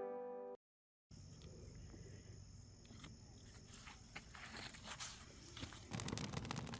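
Music fading out, then a brief dead-silent cut, then faint crackling and scattered clicks with a thin, steady high tone behind, growing busier near the end.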